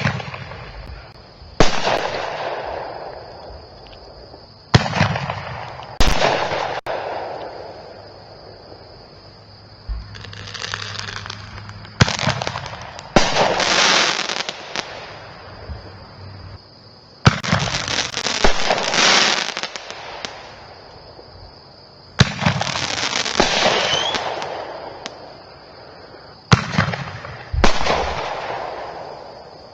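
Black Cat Big Chief, a single-tube 12-shot aerial repeater firework, firing shot after shot: about ten sharp launch reports at uneven intervals, each followed by a crackling break that fizzles out over a second or two. A faint steady high whine sits under it throughout.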